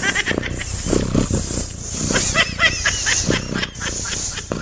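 Animals vocalising: a busy run of short calls, some of them high and chirping, over a dense, noisy background.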